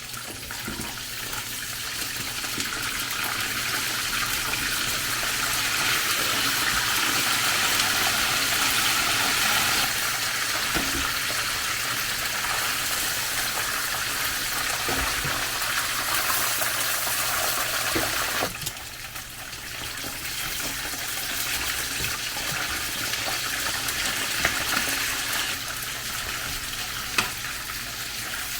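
Chicken pieces deep-frying in hot oil: a loud, steady sizzle that builds over the first few seconds. It drops suddenly about two-thirds of the way through, then builds again, with a few small clicks and pops.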